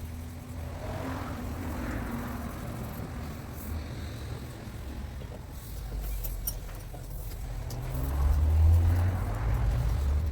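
A motor vehicle engine running with a low hum that grows louder about eight seconds in, with a few faint clicks.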